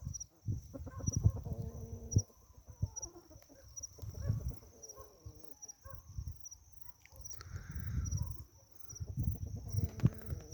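Chickens on a free-range run clucking softly, under repeated low rumbling bursts on the microphone.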